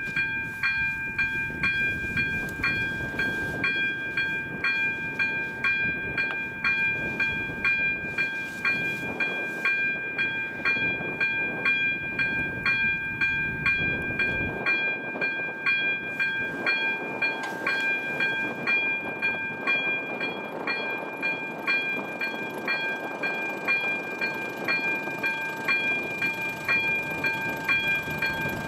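Electronic warning bell of an AŽD 97 level crossing ringing, the same bright dinging tone struck over and over at a steady rate, which means the crossing is closed for an approaching train. Beneath it runs a low rumble that drops away sharply about halfway through.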